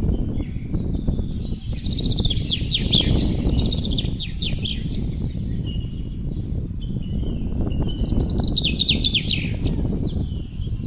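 Wind blowing with a steady low rush, with songbirds singing high chirps and quick falling trills, loudest in runs about two to four seconds in and again around eight to nine seconds.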